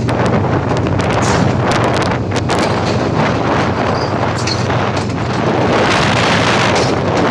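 Wind buffeting the microphone at the front of a moving train, over the steady low rumble of the train running along the track.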